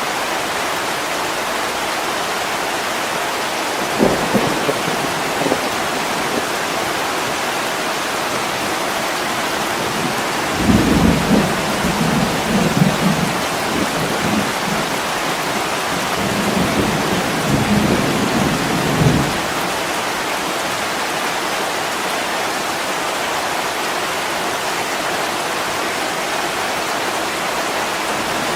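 Steady heavy rain. A short rumble of thunder comes about four seconds in, and a longer rolling thunder rumble runs from about ten seconds to about nineteen seconds.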